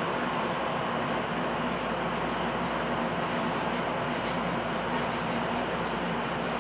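Steady running noise of a train heard from inside the carriage: an even rumble and hiss with a low hum, no distinct clicks.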